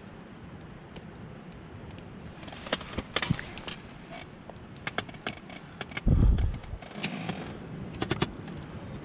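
Eating with utensils: scattered sharp clicks and taps, and a brief low thump about six seconds in.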